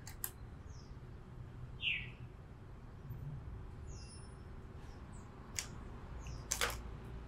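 Birds chirping: a handful of short, high chirps that slide downward in pitch, the loudest about two seconds in. Small clicks and a brief rustle from hands rethreading a sewing machine's needle come near the start and in the last two seconds.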